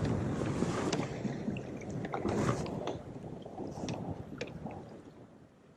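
Choppy water splashing and sloshing against a kayak hull, with wind on the microphone. Loudest over the first three seconds, then dying down near the end.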